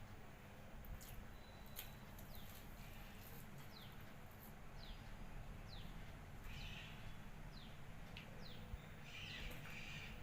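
Birds chirping outside, a string of short downward-sliding calls about a second apart, over a low steady hum and a few faint clicks.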